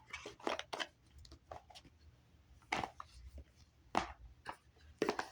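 Oracle cards being handled on a tabletop: scattered sharp taps and snaps, a few loud ones near three, four and five seconds in.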